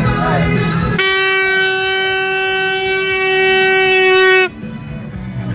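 A vehicle horn held in one long, steady blast of about three and a half seconds on a single pitch, then cut off suddenly. It is preceded by a brief jumble of celebratory noise.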